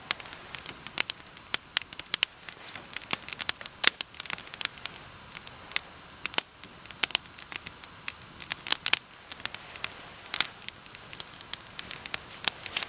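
Campfire of wet, frozen deadwood and thin sticks crackling as it catches, with sharp irregular pops several times a second over a faint hiss.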